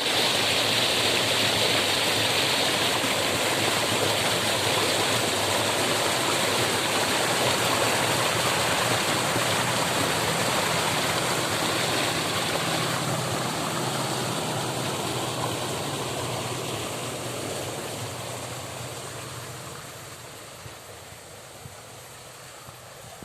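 Steady rush of flowing stream water, which fades away over the last several seconds.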